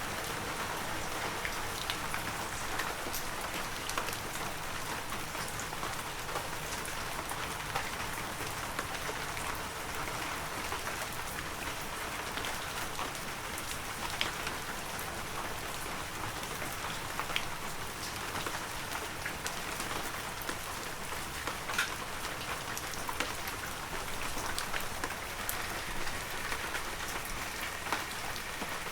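Heavy rain falling steadily: a dense, even hiss with many individual drops ticking sharply through it.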